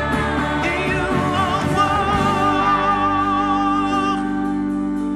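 Gospel worship music: a solo voice sings over sustained accompaniment, holding one long note with vibrato through the middle.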